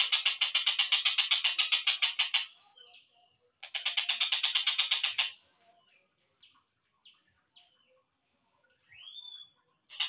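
Slowed-down recording of a collared kingfisher (tengkek buto) calling: a fast rattling series of about ten notes a second that stops about two and a half seconds in and starts again for nearly two seconds. Faint scattered chirps and a short rising whistle follow near the end.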